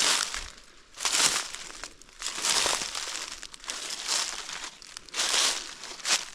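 Footsteps crunching and rustling through dry fallen leaves on the forest floor, a step about every second.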